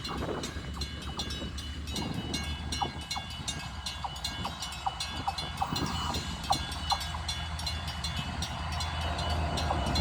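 Container freight train drawing near: a steady low diesel locomotive drone with a run of sharp wheel clicks on the rails, growing louder toward the end.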